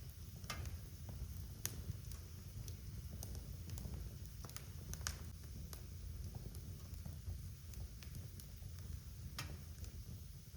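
Wood fire burning in a fireplace: a steady low rumble of flames with irregular crackles and pops, a few sharper snaps standing out.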